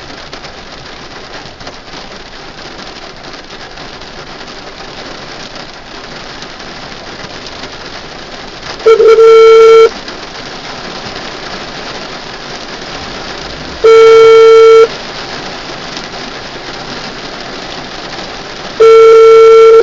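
Heavy rain drumming steadily on a car's roof and windscreen. About halfway through, a loud electronic beep sounds three times, each about a second long and five seconds apart.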